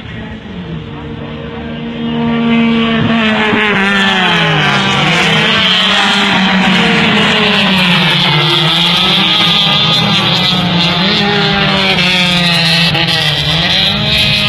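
Race car engine revving hard, its pitch climbing and dropping again and again as it works through the gears. It gets much louder about two seconds in, as the car comes close.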